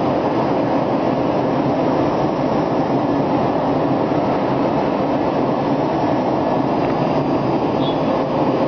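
Hermle C30 five-axis CNC milling machine running while it machines a wheel, a steady mechanical noise with faint constant tones above it.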